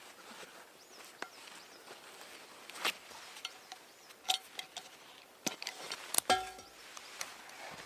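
Scattered light clicks and knocks, with a brief ringing metallic clink about six seconds in.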